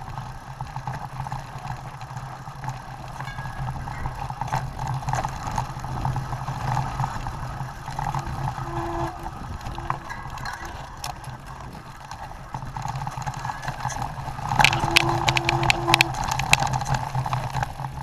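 Mountain bike riding noise on a dirt trail: a steady rush of wind and tyre rumble, with a loud burst of rattling and clatter over rough ground about fifteen seconds in.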